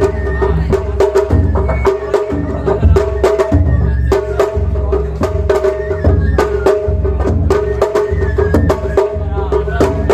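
Japanese festival hayashi music: drums beating steadily with many sharp clacking strokes, over a held melody line.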